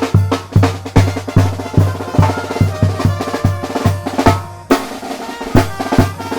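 Tamborazo band playing: the bass drum (tambora) beats steadily under snare drum and held horn chords. About four seconds in there is a snare roll, the band breaks off briefly, and then the drum beat comes back in.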